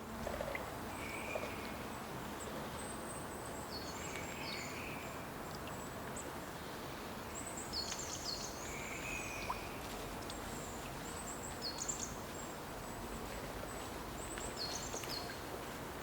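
Songbirds chirping in short high notes, in small clusters every few seconds, over a steady background hiss.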